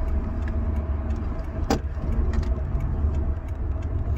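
Steady low rumble of a running car, with a short click a little under two seconds in.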